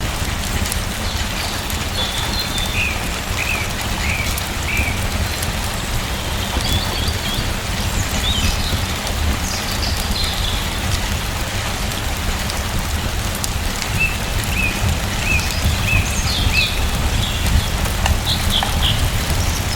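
Steady rain falling. Small birds chirp in short runs of quick high notes over it now and then.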